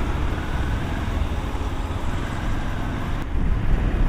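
Motorcycle engine running while riding, mixed with steady wind and road noise on the bike's camera microphone.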